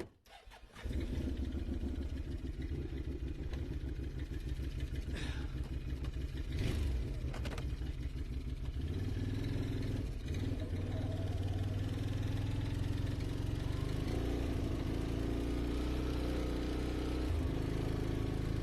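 An engine starts up about a second in and keeps running steadily, its pitch shifting a few times.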